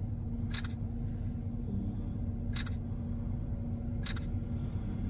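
Steady low rumble of a vehicle on the move, with a constant hum through it. Three short, sharp clicks sound a second or two apart.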